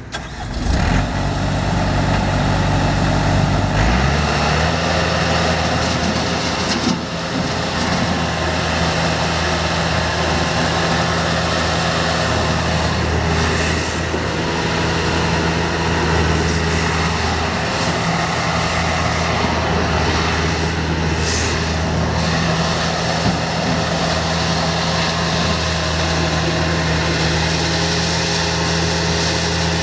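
Bobcat S250 skid steer's diesel engine running, idling low for about four seconds, then stepping up to a steady higher speed that holds. A few brief knocks sound over it.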